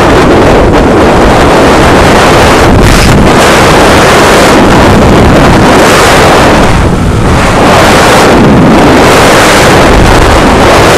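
Heavy wind buffeting on a helmet-mounted microphone while riding a motorcycle, loud and overloading the recording, with brief lulls about three and seven seconds in.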